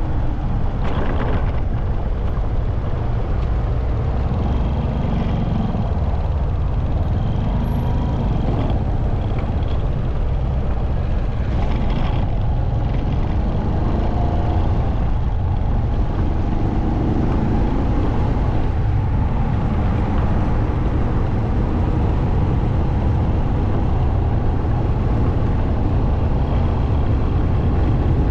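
A motorcycle on the move: a steady low rumble of engine, road and wind noise, with a couple of brief louder swells, about a second in and around twelve seconds.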